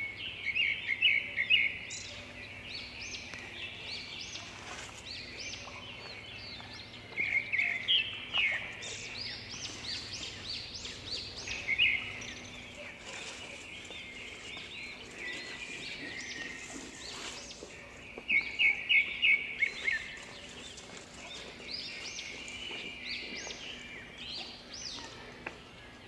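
Birds chirping continuously in high, short notes, with a few louder runs of fast repeated notes.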